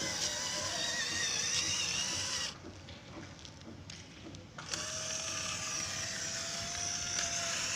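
Small electric motor whining steadily like a drill. It cuts out for about two seconds in the middle, then starts again at a slightly higher steady pitch.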